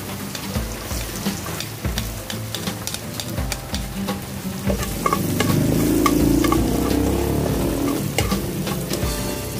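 Minced garlic sizzling and crackling in hot oil in a nonstick pan. About halfway through, sliced tomatoes go into the pan and the sizzle grows louder. Metal tongs stir the mixture against the pan.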